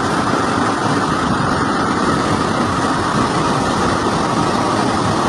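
Heavy tropical downpour: a loud, steady rush of rain pouring down, with floodwater running over a street.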